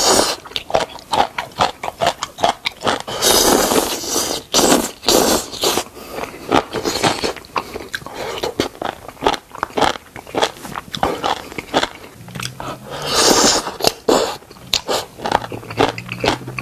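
Close-up crunching and chewing of crisp food, many quick crackly bites in an irregular stream.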